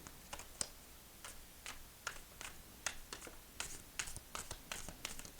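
A deck of Tea Leaf Fortune Cards being shuffled and handled: faint, irregular clicks and light snaps of card against card, with short rustles.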